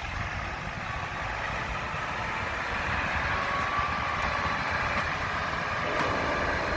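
Engine of a heavy machine running steadily, with a faint high whine over the rumble.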